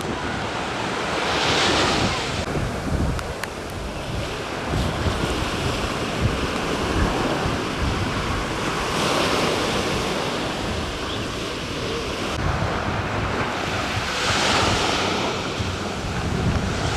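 Rough sea surf breaking and washing in strong wind, surging about three times, with gusts buffeting the microphone in a low rumble.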